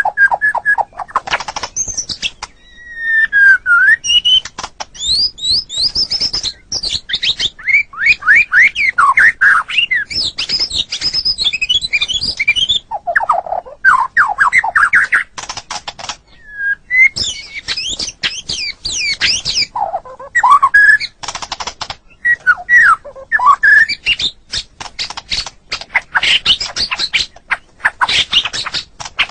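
White-rumped shama (murai batu) singing a long, varied song of fast whistled glides, trills and sharp chips, in phrases broken by short pauses.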